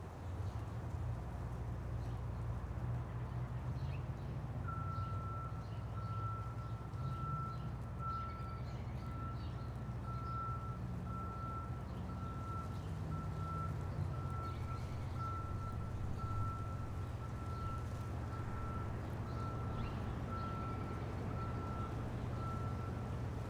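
A large vehicle's engine running with a steady low rumble. From about five seconds in, its reversing alarm beeps steadily at an even pace, roughly once a second.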